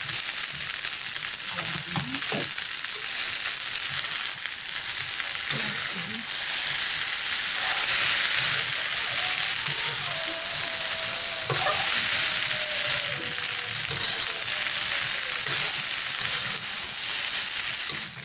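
Fried rice with scrambled egg sizzling in a wok while a metal spatula stirs it, with a steady hiss and the spatula scraping and knocking against the pan now and then.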